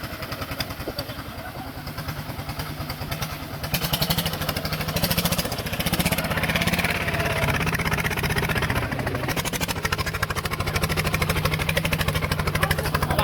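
Small tractor's engine running with a rapid, even firing beat. It gets louder about four seconds in and stays up.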